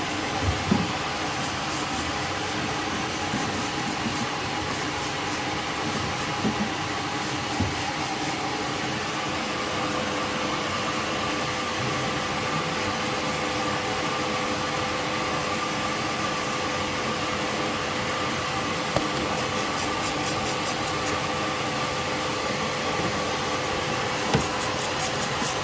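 Alfa Romeo Spider engine idling steadily with its exhaust leak fixed, with a few brief light knocks.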